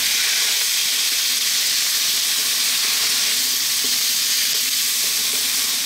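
Chopped broccoli stalks, onion and garlic-ginger paste sizzling in hot oil in a large wok as a wooden spatula stirs them: a steady, high frying hiss.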